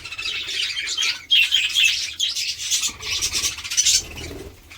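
A flock of budgerigars chattering and chirping without a break.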